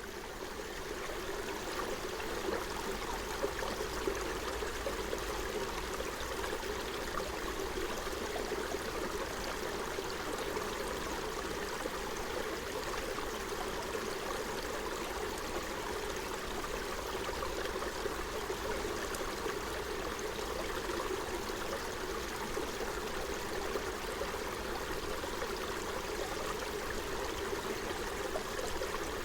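A forest stream running steadily over stones, a continuous babble and gurgle of flowing water.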